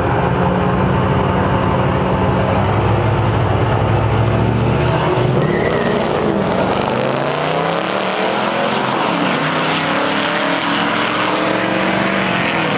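Diesel pickup truck engine running hard on a drag strip run, a strong steady note at first, then its pitch sweeping down and back up in the second half.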